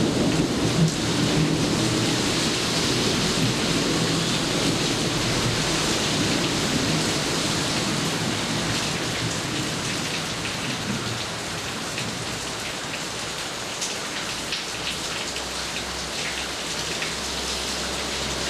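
Steady heavy rain falling, with a low thunder rumble in the first half that fades away. A few sharper drop taps come through later on.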